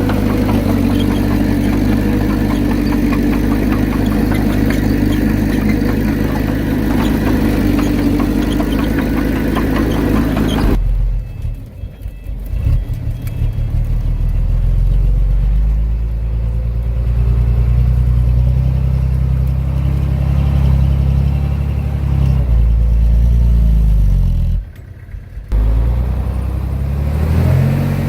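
Heavy diesel engine of earthmoving machinery running under load. About a third of the way in the sound switches abruptly to a deeper engine note that rises and falls in pitch, with a brief drop near the end.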